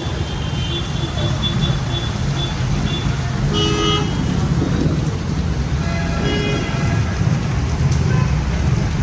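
Heavy rain with a steady low rumble, and car horns tooting briefly twice, about three and a half seconds in and again around six seconds, over road traffic.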